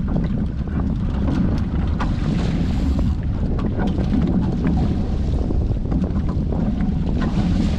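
Wind buffeting the microphone over the rush and slap of water against a Hobie 14 catamaran's hulls while sailing.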